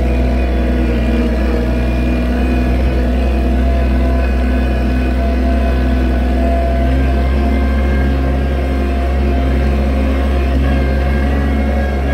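Oliver 770 tractor's six-cylinder engine running at a steady speed.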